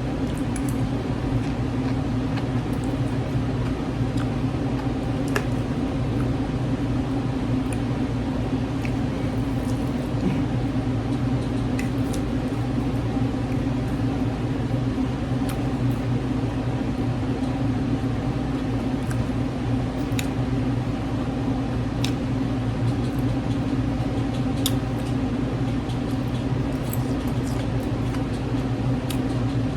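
A steady low mechanical hum throughout, with scattered short clicks and smacks from someone eating.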